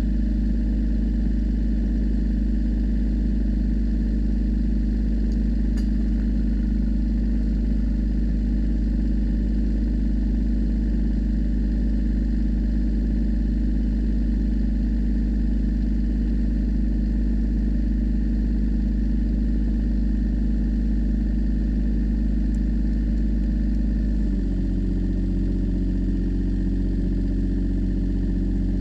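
Tractor engine running steadily at a low, even speed, with a slight change in its note about 24 seconds in.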